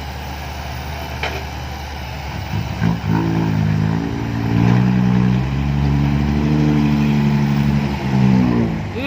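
Six-wheel dump truck's diesel engine revving up and held at high revs under heavy load as the loaded truck climbs a sticky clay ramp, then dropping off near the end.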